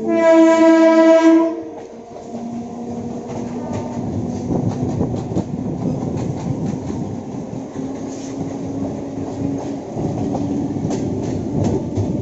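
Electric multiple unit (EMU) local train sounding its horn for about a second and a half. The horn then stops and the train runs on, its wheels clicking over the rail joints under a low steady hum.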